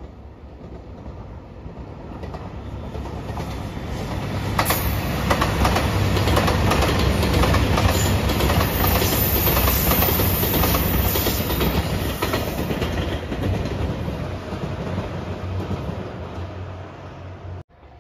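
JR Shikoku 2700 series diesel limited express passing, its wheels clacking over the rail joints with a steady low engine drone. It builds up over the first few seconds, is loudest through the middle as the cars go by, then fades, cutting off abruptly just before the end.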